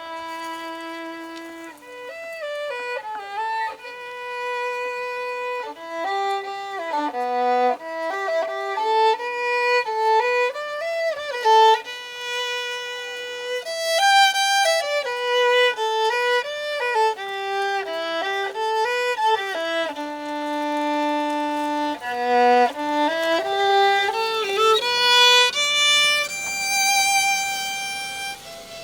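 Solo violin melody, a slow tune of held notes joined by slides in pitch, playing as background music.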